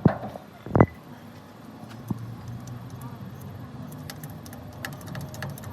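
Metal being handled in a workshop: two sharp clanks, the second ringing briefly, a lighter knock, then a run of light metallic clinking and ticking over a steady low hum.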